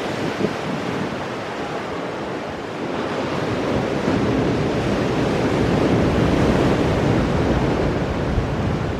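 Ocean waves crashing on rocks and washing back, with a surge that builds from about three seconds in and eases near the end. Wind rumbles on the microphone.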